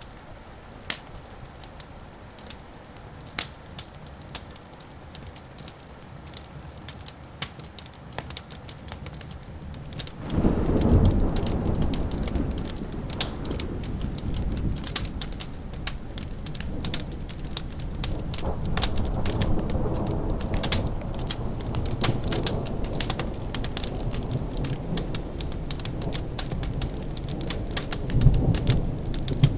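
Fireplace crackling with scattered sharp pops. About ten seconds in, a long, low thunder rumble begins suddenly and rolls on, swelling again near the end.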